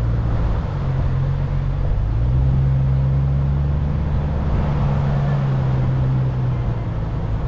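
A small Jeep driving on a road: a steady engine drone with road noise, rising in pitch about one and two seconds in and easing back near six seconds in.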